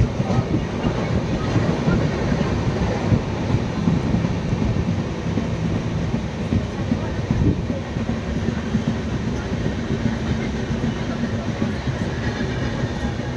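Train running: a continuous low rumble.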